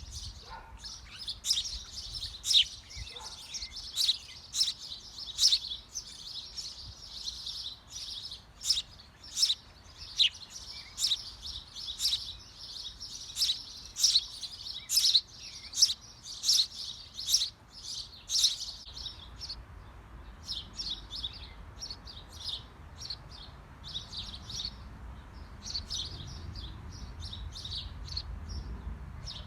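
Small birds chirping in a birdhouse: a fast, continuous run of short, high-pitched chirps. They are loud and dense at first and grow fainter and sparser after about two-thirds of the way through.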